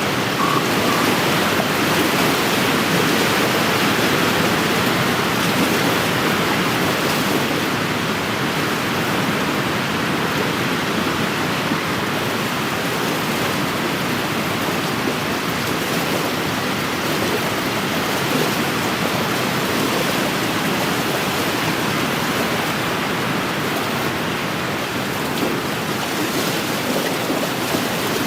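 Wind-driven waves washing steadily against an inland lake's shore, mixed with the rush of wind.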